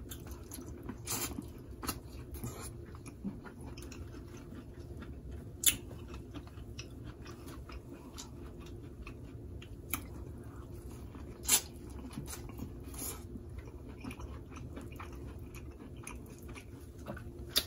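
Close-miked eating of a seafood boil: chewing and mouth sounds, with scattered sharp clicks and crunches every few seconds over a faint steady hum.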